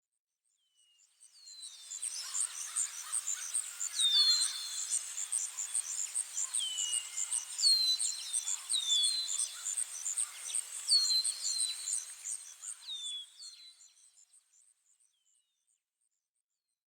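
Countryside nature ambience of birds and insects: a high, evenly pulsing insect chirp runs steadily while a bird repeats short down-slurred whistled calls every second or two. It fades in over the first two seconds and fades out about fourteen seconds in.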